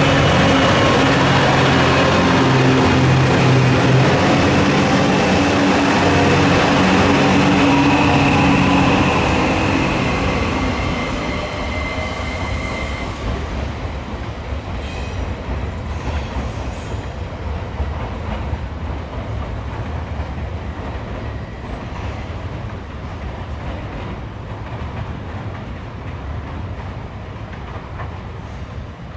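A train running past, loud at first with a steady mechanical hum, then fading away from about nine seconds in. Wheels click over the rail joints as it recedes.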